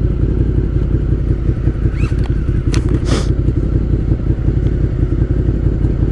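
Motorcycle engine running steadily. About two to three seconds in come a few short sharp clicks and a brief rising chirp.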